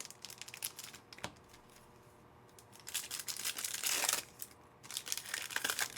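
Flimsy trading-card pack wrapper crinkling and tearing as a pack of football cards is ripped open and handled. A few light clicks come first, then two spells of crinkling: a longer one about three seconds in and another near the end.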